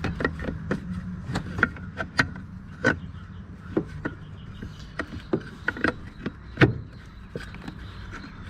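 Irregular clicks and knocks of metal parts and tools being handled while the brake master cylinder is worked loose, the loudest knock about six and a half seconds in, over a steady low hum.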